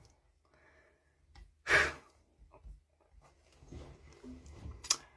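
A man's short breathy exhale about two seconds in, then faint small sounds and a sharp click near the end.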